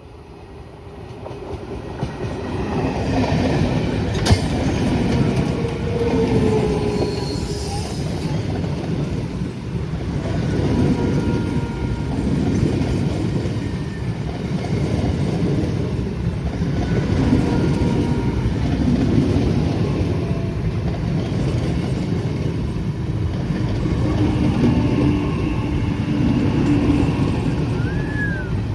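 A train running past, growing louder over the first few seconds and then rolling on steadily, with wheels rumbling on the rails and thin wavering wheel squeals above. There is a sharp click about four seconds in.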